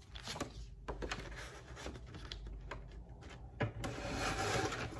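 Manual business card cutter being worked: a series of clicks and knocks as the lever is pressed and the card stock moved through, the loudest knock about three and a half seconds in, followed by a soft rustle of paper.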